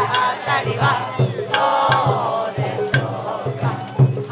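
Sawara bayashi festival float music: a steady beat of taiko drums with sharp bell strikes and wavering flute or chanting voices above.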